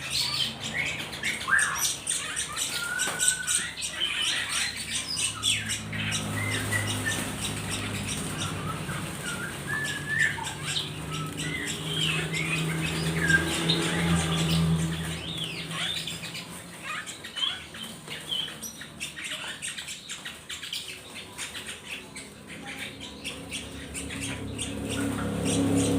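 Birds chirping and squawking, many short calls following one another.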